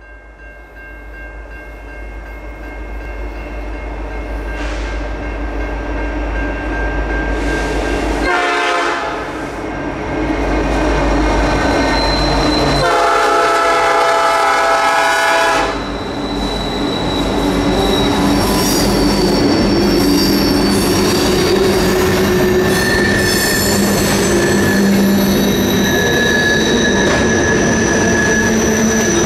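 A Canadian National freight train with diesel locomotives leading approaches and passes a level crossing, its engine rumble growing steadily louder as the crossing bell rings. The locomotive air horn gives a short blast about eight seconds in and a longer one about thirteen seconds in. Freight cars then roll through with high-pitched wheel squeal.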